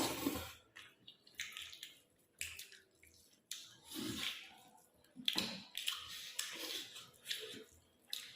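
Wet eating sounds of rice and chicken gravy being chewed: irregular squishy smacks and chews, a burst every second or so.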